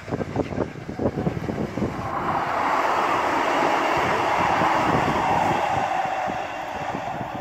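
For about two seconds, rapid exhaust beats from A1 Peppercorn Pacific steam locomotive 60163 Tornado. Then a Northern diesel multiple unit passes beneath and runs away along the line: a steady engine-and-wheel noise that swells to its peak around five seconds in and then fades.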